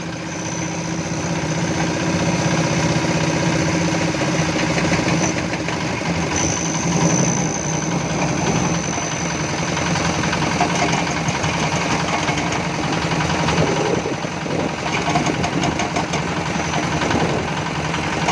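Engine of a construction machine running steadily at a turned-down, idle-like speed, with a faint high whine coming and going.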